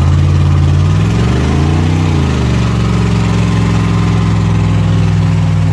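Pickup truck engine revved hard while held on the brakes for a burnout. Its pitch rises and falls once about two seconds in, then holds steady at high revs.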